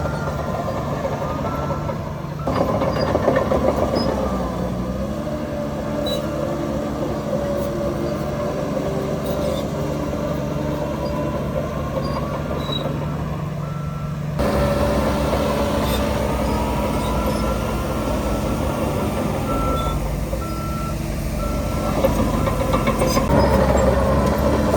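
Heavy diesel earthmoving machinery running steadily, with a reversing alarm beeping in short runs at a steady pitch, most clearly near the end.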